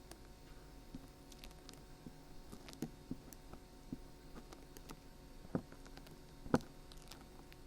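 Dried glue being slowly peeled off the ear of a binaural dummy-head microphone: faint, scattered crackles and small ticks, with two louder snaps in the second half.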